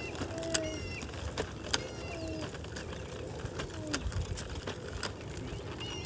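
A bird calling outdoors: short, falling notes repeated every second or two, with scattered sharp clicks over a faint steady background.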